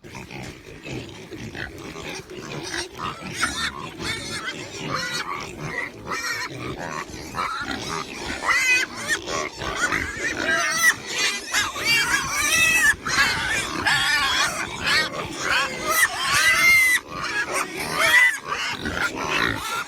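Domestic pigs grunting and squealing, a quick, overlapping run of short high calls that grows louder and busier about eight seconds in.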